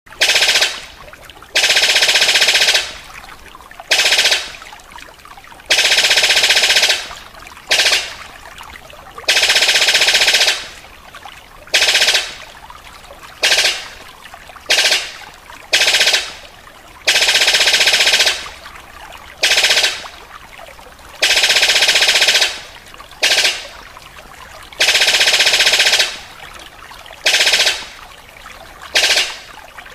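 Recorded bird song: loud, harsh, rapid rattling phrases repeated over and over, some about a second and a half long and others short, with a brief pause between each.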